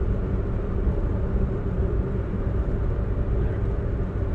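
Steady low rumble of a car driving, with no breaks or changes.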